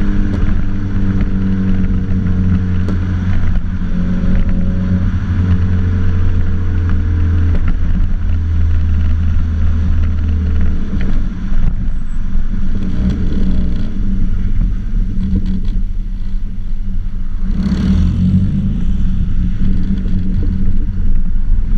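2007 Mazda MX-5 Mk3's 1.8 four-cylinder engine running through an aftermarket back box and decat, giving a steady low exhaust drone. The deepest part of the note drops away about halfway through, and a brief rush of noise comes near the end.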